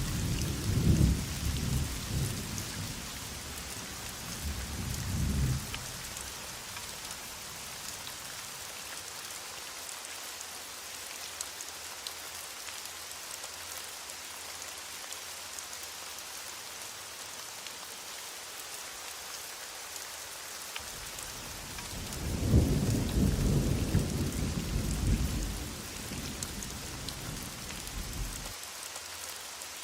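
Heavy rain falling steadily, with distant thunder rumbling low twice: once at the start, fading by about six seconds in, and again for several seconds near the end.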